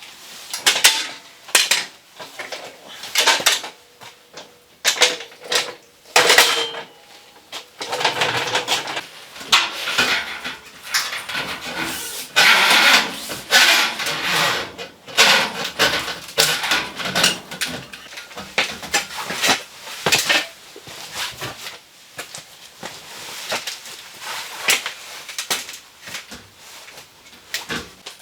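Irregular clatter of hard objects being handled: many sharp knocks and clicks, with longer scraping or rustling stretches in the middle.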